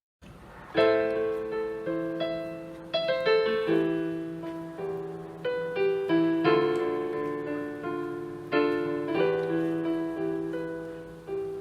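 Piano playing slow chords, each struck and left to ring and fade before the next, starting about a second in.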